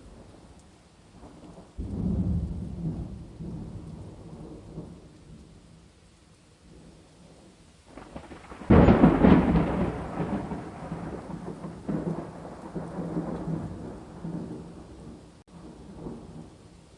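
Thunder over rain. A rumble breaks about two seconds in and fades. A louder, sharper clap comes near the middle and rolls on for several seconds in uneven swells.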